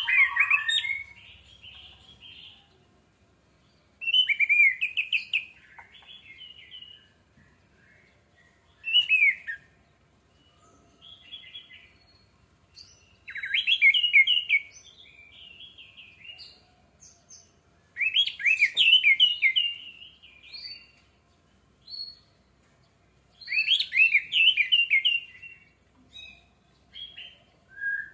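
Orange-headed thrush singing: loud, fast, varied phrases of one to two seconds, repeated every four to five seconds, with fainter single notes between them.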